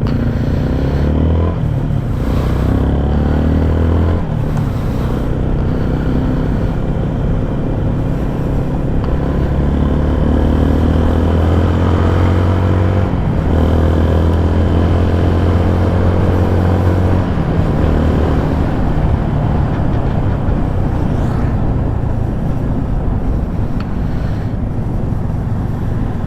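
Motor vehicle engines running close by, with a low steady hum. An engine revs up twice, its pitch rising each time, about a third and about halfway through.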